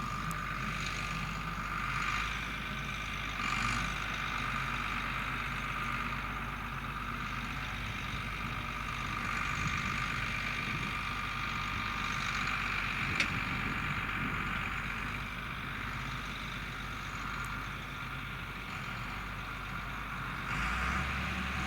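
John Deere 4850 tractor's six-cylinder turbo diesel running steadily under load, pulling a six-furrow plough, with a steady high whine over the engine note. One sharp click about thirteen seconds in.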